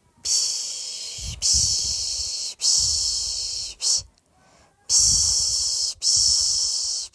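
A person shushing a baby to sleep with the Turkish 'piş piş' sound: a run of long hissing 'shh' sounds, each about a second, with a short break between them and a longer pause about four seconds in.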